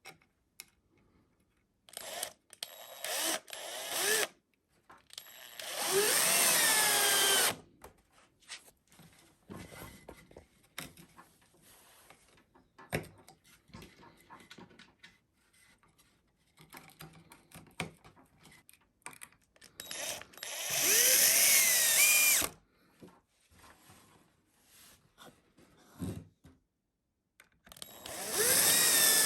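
Power drill run in a few short bursts, then three longer runs of about two seconds each, its motor pitch bending as it loads up in the wood. Small clicks and knocks of handling come between the runs.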